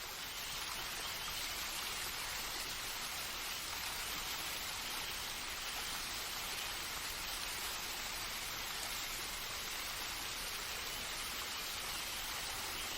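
Steady rushing water, a continuous even hiss with no distinct drops, calls or music.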